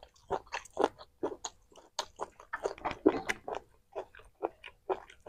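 A person chewing and biting food, rice and chicken, with many short, sharp mouth clicks at an irregular pace, a few a second.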